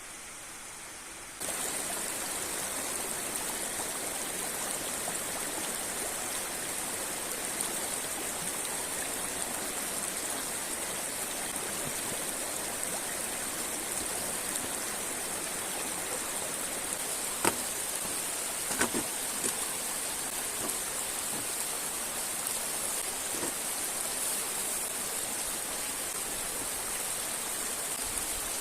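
Steady rushing of river water, stepping up sharply to a louder level about a second and a half in. A few sharp clicks sound in the middle, the first one the loudest.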